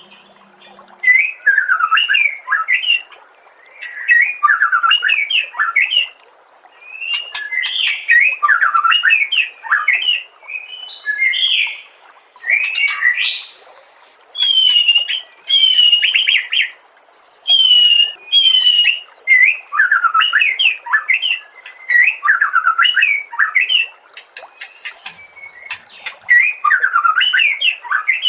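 White-rumped shama (murai batu) singing: a run of loud, varied whistled phrases, each a second or two long with short pauses between, many sweeping down in pitch and mixed with high, thin chips.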